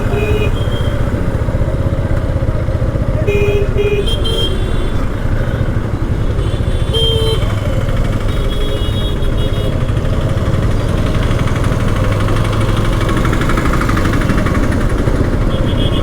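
Two-wheeler riding through dense city traffic, with a steady rumble of engine and wind noise on the helmet or body-mounted microphone. Vehicle horns beep briefly several times, about four or five short honks in the first ten seconds.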